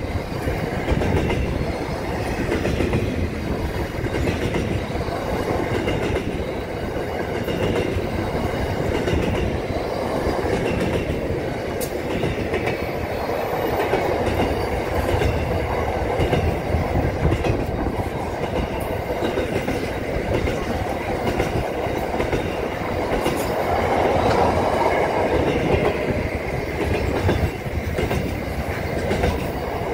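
Double-stacked container freight train rolling past at slow speed, slowing down: a steady rumble and clatter of wagon wheels over the rail joints, with faint wheel squeal at times.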